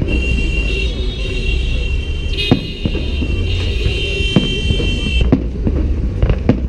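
Fireworks salute: sharp bangs about two and a half, four and a half and six seconds in, over a steady low rumble. For the first five seconds a shrill, steady whistle-like tone sounds over them, then cuts off suddenly.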